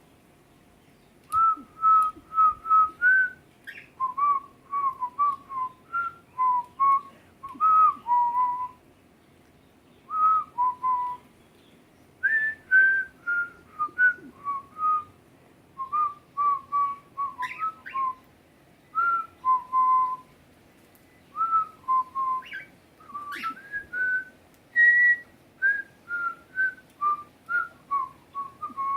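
A person whistling a tune: a long run of short, clear notes that step up and down in phrases, with brief pauses between phrases.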